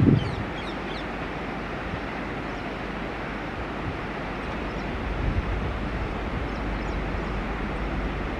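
Approaching express train, an electric locomotive hauling LHB coaches at speed: a steady rush of wheel and track noise, with a deeper rumble building from about five seconds in as it draws nearer. A short honk-like sound at the very start is the loudest moment.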